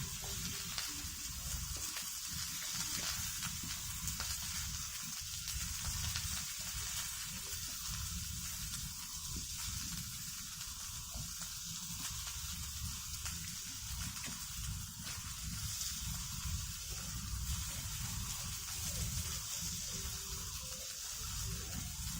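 Food sizzling in a frying pan over a campfire, a steady hiss with fine crackles, with a low rumble underneath.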